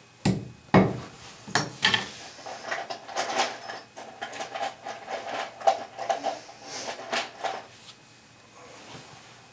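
Clatter of objects being handled: two heavier thumps about half a second apart near the start, then a few seconds of lighter knocks and rattles that die away near the end.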